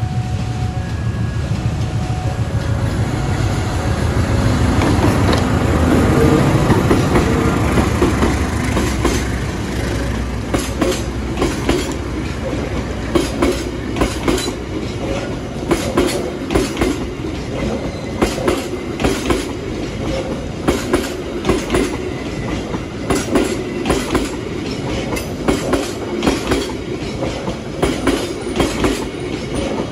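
Argo Wilis passenger train passing close by: the diesel-electric locomotive's engine rumble swells over the first several seconds. Then the coaches' wheels clatter over the rail joints in a steady run of paired clicks.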